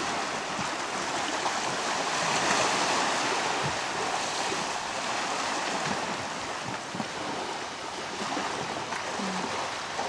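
Steady rush of sea water, waves washing, with no distinct breaks or strokes.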